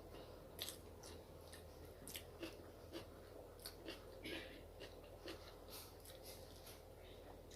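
Faint close-up chewing of a rice and curry meal: irregular soft wet mouth smacks and small clicks, several a second.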